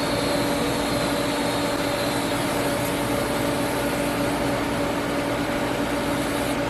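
TIG welding arc on a cast iron handle hissing steadily over a steady electrical hum. The arc cuts off near the end.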